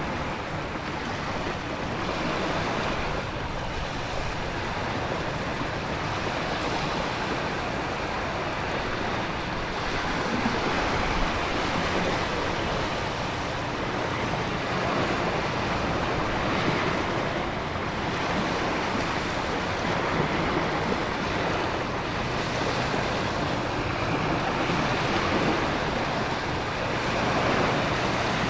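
Storm ambience of heavy ocean surf and wind-driven rain: a dense, steady rushing that swells and eases every few seconds as waves surge, over a faint steady low hum.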